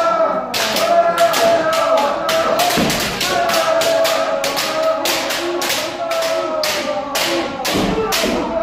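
Kendo practice: bamboo shinai cracking on armour in a quick, irregular run of strikes from several pairs at once, over long, drawn-out kiai shouts.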